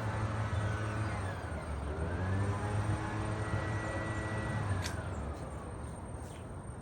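A motor or engine running, its pitch falling, then rising and holding steady, then falling again, over a steady low hum, with a sharp click about five seconds in.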